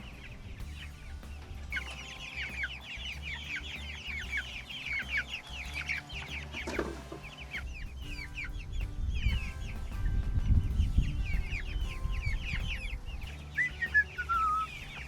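A flock of young Cornish Cross broiler chicks peeping: many short, falling peeps overlapping, busiest from about two seconds in and thinning later, with a longer gliding call near the end. A low rumble runs underneath, loudest about two-thirds of the way through.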